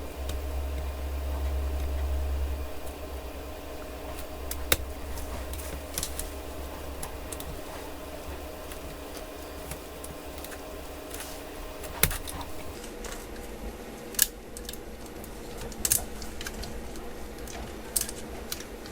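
Sharp clicks and taps of tools and small parts on a laptop's plastic and metal during disassembly, a handful of separate clicks spread out, over a steady low hum.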